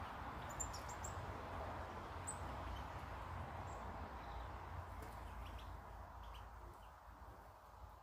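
A few brief, high chirps from small garden birds, most of them in the first half, over a steady outdoor background hiss that grows quieter toward the end.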